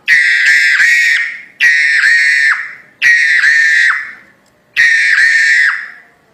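Crested myna (jalak hongkong) giving four loud, harsh calls, each about a second long, trailing off between calls.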